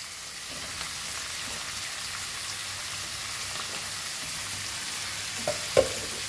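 Onions and green chillies sizzling steadily in hot oil in a kadhai, with chopped tomatoes being added. Near the end a wooden spatula starts stirring, giving a couple of sharp knocks against the pan.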